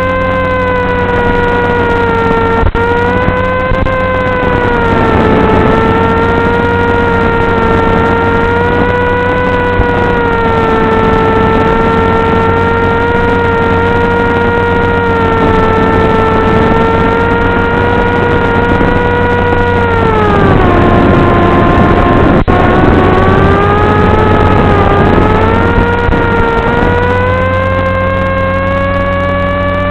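Electric motor and propeller of an FPV flying wing running in flight, a steady whine that drifts in pitch with throttle, dropping lower about two-thirds of the way through and climbing back near the end.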